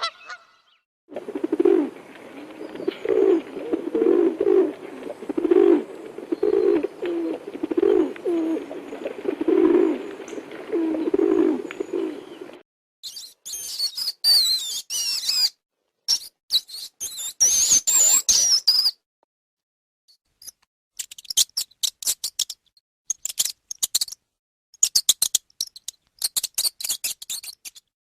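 A run of separate animal calls, mostly birds: about eleven seconds of repeated low honking calls, then high gliding chirps, then rapid high clicking calls after a short gap.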